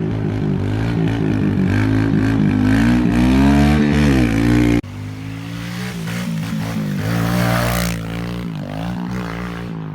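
Small minibike engine revving, its pitch rising and falling with the throttle, in two stretches joined by an abrupt cut about five seconds in.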